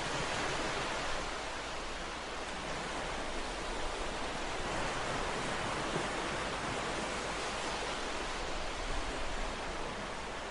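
Ocean waves: a steady rushing surf with small rises and falls in loudness.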